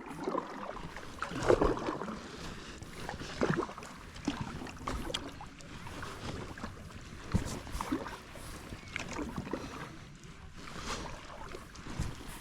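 Kayak paddling: paddle blades dipping and splashing in the water, a stroke every second or two, with occasional sharp knocks over a steady wash of water.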